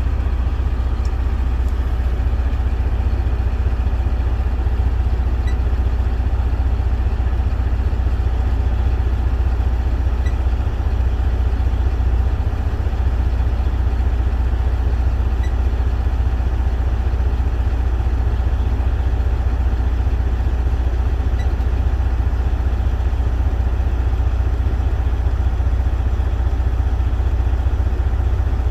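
A vehicle engine idling steadily, with a constant low hum and no change in speed.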